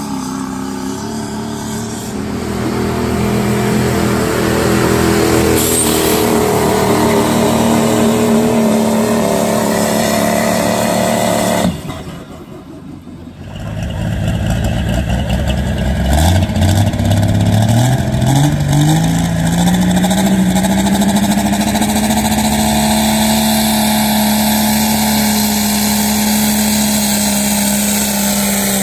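Pickup truck engines at a truck pull running hard. About halfway through the sound drops briefly, then one engine revs up quickly and holds steady at high revs, as a truck does under full load while pulling the weight sled.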